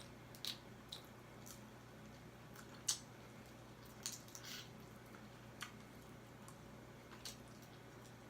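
Faint eating sounds of crab legs: scattered soft wet squishes and clicks of chewing and handling crab shell, the sharpest click about three seconds in.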